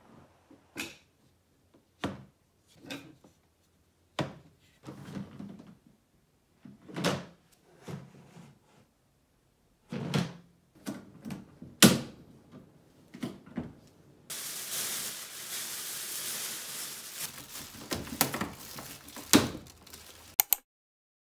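White plastic SOLOW 35L pedal bin: its pedal and double-opening lid clack and thunk open and shut about a dozen times, the loudest knock near the middle. From about two-thirds of the way in, a plastic bin bag rustles for around six seconds as it is fitted into the bin, with a few more lid knocks.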